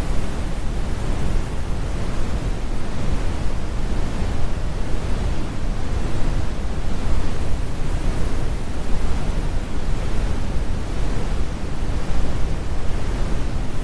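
Steady synthetic brown noise: a deep, even rumble weighted heavily toward the bass, with the high end rolled off.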